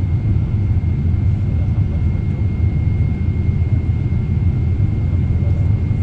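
Steady low rumble of engine and airflow noise inside the cabin of a Boeing 777-300ER with GE90 engines on approach, with a thin steady high tone above it.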